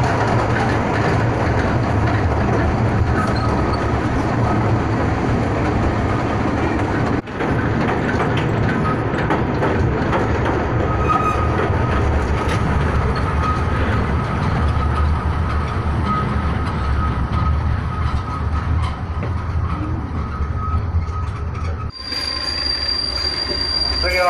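Kurobe Gorge Railway's narrow-gauge train running, heard from an open-sided passenger car: a steady loud rumble and rattle of wheels on the rails. A thin, high, steady wheel squeal runs through it from a few seconds in until near the end.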